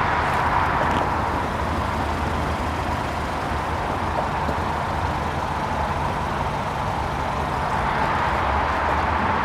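2020 Hyundai Sonata Limited idling steadily, heard from outside the car, with a low, even hum and outdoor background noise.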